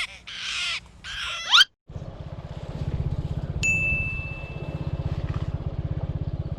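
After a few short voice-like calls and a sudden cut, a small motorcycle engine runs steadily with a fast, even low pulse. About three and a half seconds in comes a brief high ding.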